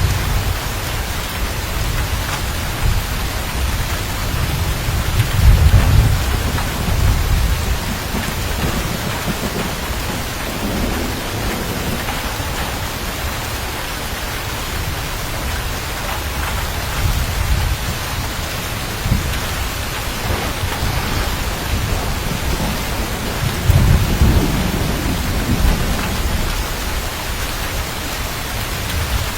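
Steady heavy rain with thunder rolling low in the background, swelling into two deeper rumbles, about five seconds in and again near the end.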